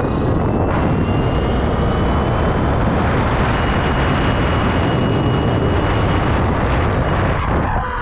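Heavy wind rushing over the microphone while a Bafang BBS-HD mid-drive e-bike is ridden at speed, with the motor's faint high whine under it. Near the end the rush eases and the motor whine comes through, falling in pitch as the bike slows.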